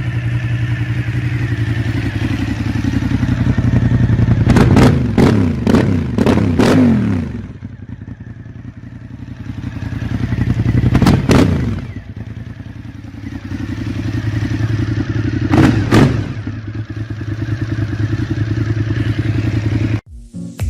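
Cagiva Raptor 1000's 90-degree V-twin with an Akrapovic exhaust idling and revved in throttle blips. A quick run of several blips comes about five seconds in, a single rev about eleven seconds in and another about sixteen seconds in, each dropping back to idle.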